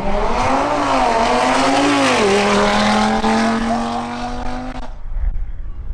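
Audi RS3's turbocharged five-cylinder engine accelerating hard from a standing start down a drag strip. Pitch climbs, drops at an upshift about two seconds in, then climbs again until the sound cuts off suddenly near the end.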